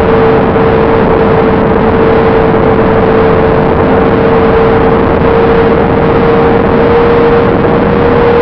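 Onboard sound of the Bynary 1200 FPV flying wing in flight: its electric motor and propeller hold a steady whine at constant throttle over loud rushing wind noise.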